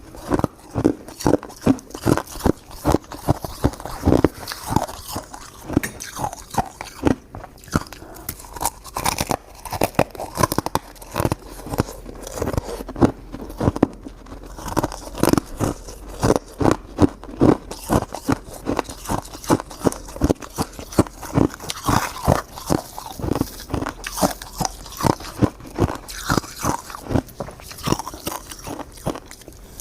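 A person biting and chewing crunchy crystal shaved ice, with rapid sharp crunches several times a second.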